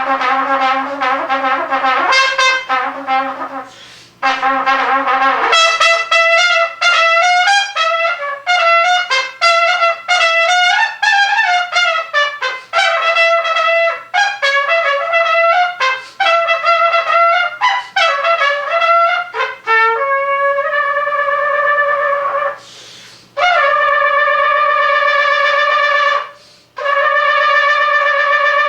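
Unaccompanied trumpet playing a solo: phrases of quick, short notes, then long held notes with vibrato in the last third.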